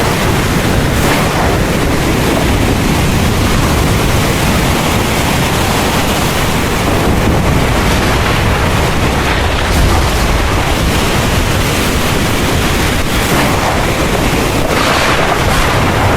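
Heavy rain falling steadily, with low rolling thunder underneath and a brighter surge of rain about fifteen seconds in.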